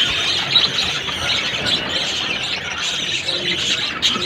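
Budgerigars chattering steadily, a dense run of quick warbles and chirps.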